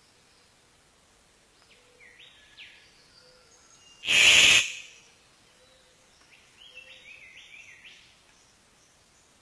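A bird chirping in short phrases, twice. Between them, about four seconds in, comes a sudden loud half-second burst of harsh noise.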